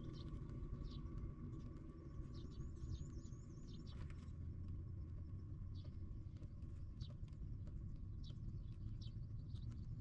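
Birds chirping: short, high chirps scattered through, with a quick run of them about three seconds in. A steady low rumble runs underneath.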